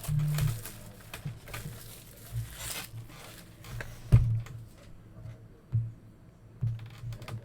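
A trading-card box and its pack wrappers being handled and opened: crinkling and tearing foil, with scattered knocks on the table. The loudest knock comes about four seconds in. Faint background music plays underneath.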